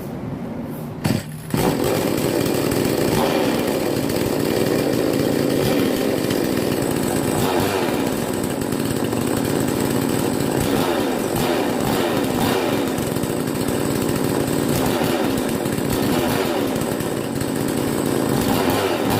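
Two-stroke petrol chainsaw engine running loudly and steadily, coming in about a second and a half in after a brief sharp sound.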